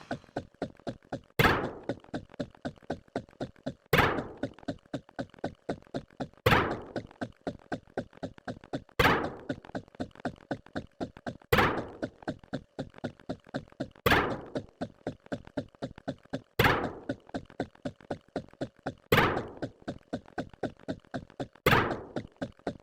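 A fast, even run of short knocks, about four a second, with a louder thunk every two and a half seconds, like a repeated sound effect on a loop.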